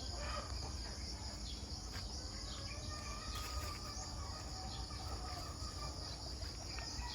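Faint outdoor ambience: a steady high-pitched insect drone, with a few short faint chirps from birds.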